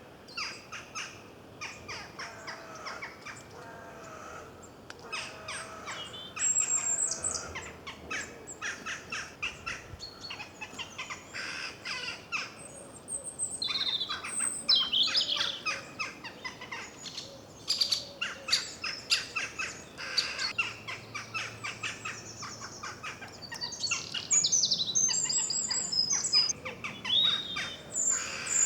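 Several small songbirds chirping and singing together: a rapid stream of short, sharp chirps with high whistled phrases over them.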